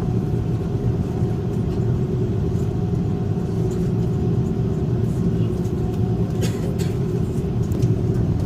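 Steady low rumble of an Airbus A330-300 passenger cabin: engine and airflow noise with a faint steady tone above it, and a few short clicks about six and a half seconds in.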